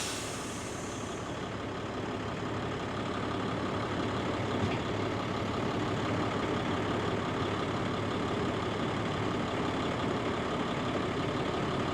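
Large tipper truck's diesel engine running steadily, growing slightly louder over the first few seconds.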